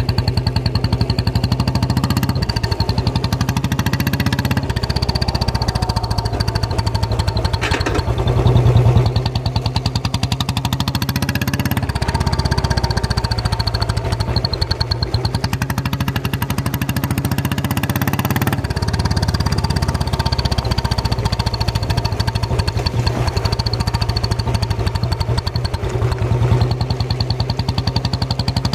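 Royal Enfield Bullet single-cylinder engine running with a turbo whistle fitted in the silencer outlet. It gives a steady even thump and a steady high whistle tone, and is revved briefly about eight seconds in.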